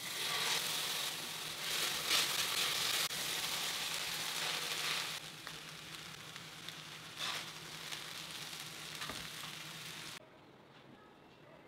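Vegetables and rice frying and sizzling in a stainless steel pan, with a few light clicks. The sizzle changes level a few times and stops abruptly about ten seconds in.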